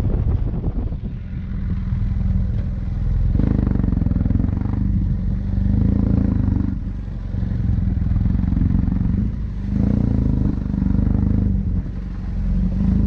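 Motorcycle engine running on the move, its note swelling and easing several times as the throttle opens and closes.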